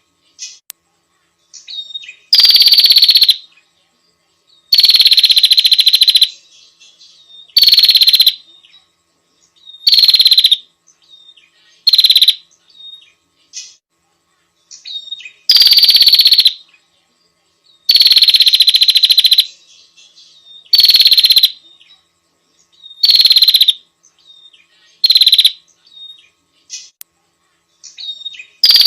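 Small songbird calling over and over, a recorded tutor song for training contest birds. Loud, buzzy bursts of half a second to a second and a half come every couple of seconds, each one high-pitched and dropping slightly.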